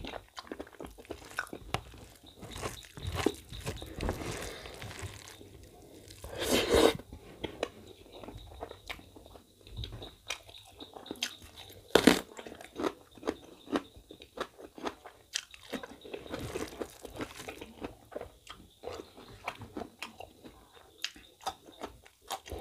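Close-up chewing and eating by hand: a man eating mutton innards curry with rice, with many short clicking mouth noises. Two louder noises stand out, about six and a half and twelve seconds in.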